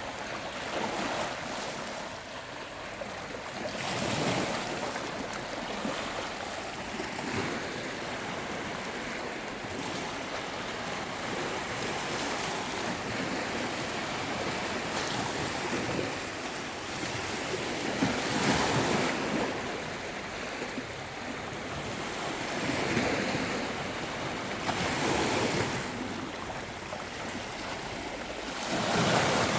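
Sea surf on a beach: a continuous wash of breaking waves, with louder breakers swelling in every few seconds, about five times.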